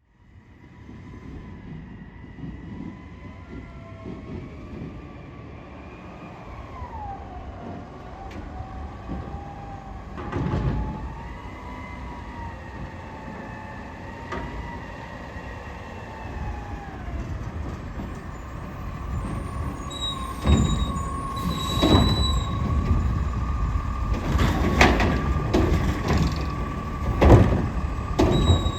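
Diesel Autocar garbage truck with a McNeilus front-loader body running, a low rumble overlaid with whines that slowly rise and fall in pitch. Sharp clanks come about ten seconds in and several more in the last eight seconds, the loudest sounds here.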